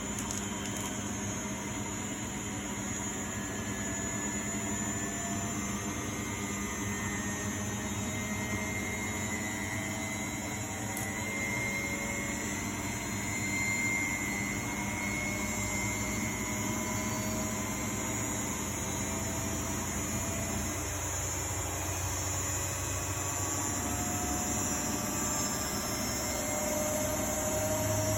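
A 1999 Miele Novotronic W828 front-loading washing machine running with a steady mechanical hum, its motor whine slowly rising in pitch as the drum speeds up. The low hum grows stronger near the end.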